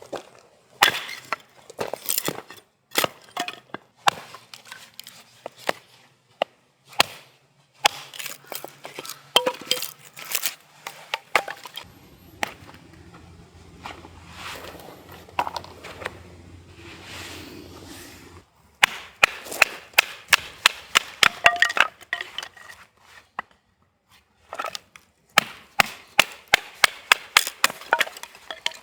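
Repeated sharp cracks and knocks, like wood being broken or chopped, some coming in quick even runs of several strokes a second.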